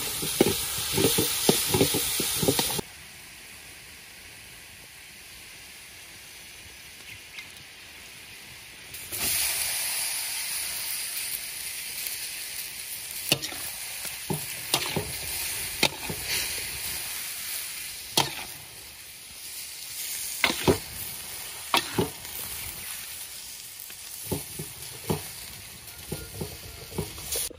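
Meat, garlic and chilli sizzling in a hot steel wok, with a metal spoon scraping and clinking against the pan as it is stirred. About three seconds in the sizzling drops suddenly to a faint hiss. Several seconds later it comes back loud as water spinach is stir-fried, with scattered clinks of the spatula on the wok.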